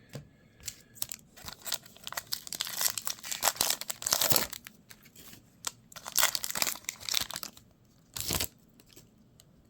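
A baseball card pack's wrapper being torn open and crinkled, with a run of irregular rustling bursts and a short last burst near the end.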